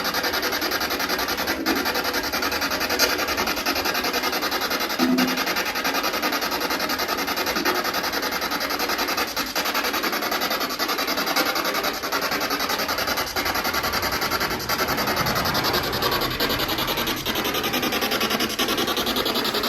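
Spirit box sweeping through radio stations and played through a speaker: a steady, rapidly chopped hiss of radio static with brief faint snatches of sound.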